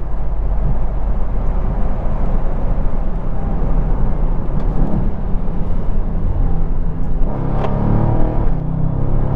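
2020 Dodge Charger Scat Pack's 6.4-litre V8 running on the road, with steady engine and road noise. The engine note comes up more strongly near the end.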